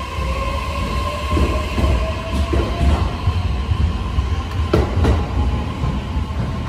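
JR E209-series electric commuter train pulling out of the platform. Its motor whine rises in pitch as it gathers speed over the first few seconds, over a steady low rumble, and its wheels clack over rail joints a few times.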